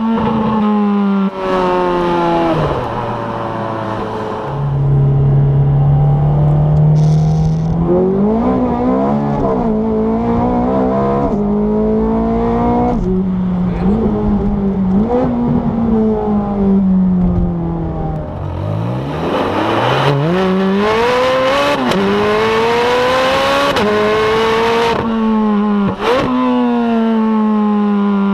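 Ferrari 430 Scuderia's 4.3-litre V8 under hard acceleration, the revs climbing and dropping sharply at quick upshifts. Partway through it holds a steady pitch, then the revs fall away as the throttle is lifted before another steep climb and more sharp shifts near the end.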